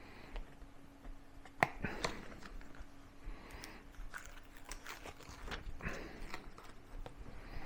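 Crackling and small clicks of the backing being peeled off an adhesive neoprene skin panel and the panel being handled, with one sharper click a little over a second and a half in.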